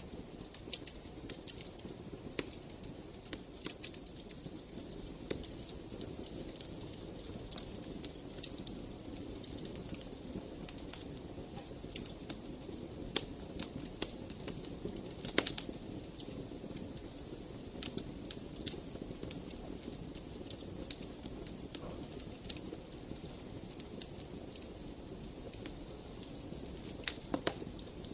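Wood fire in a fireplace crackling: irregular sharp pops and snaps over a steady low hiss of burning.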